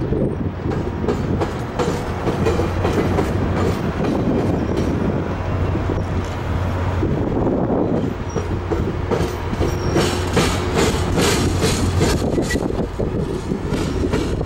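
Tri-Rail commuter train of bilevel coaches rolling past with a steady rumble, its wheels clicking over the rail joints and the diamond crossing. The clicks come in quick runs, loudest in the second half.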